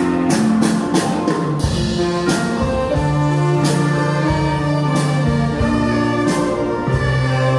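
Band music: held melody notes over a bass line, with drum strokes keeping a beat.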